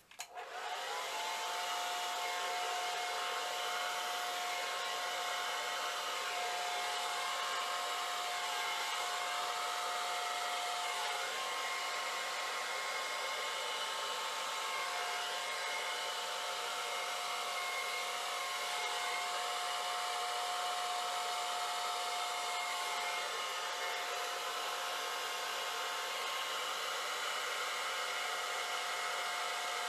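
Hand-held blow dryer switched on about half a second in, then running steadily: a rush of air with a steady motor whine.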